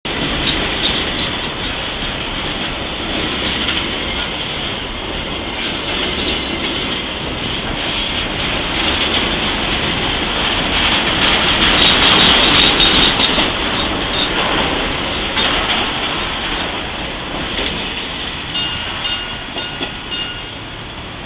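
Freight train rolling past, its wheels clicking over the rail joints. It is loudest about halfway through and grows fainter near the end.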